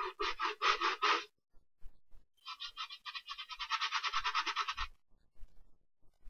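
A brush scrubbing a sneaker in quick back-and-forth strokes: a short burst of about six strokes, then, after a pause of about a second, a faster run of strokes lasting over two seconds.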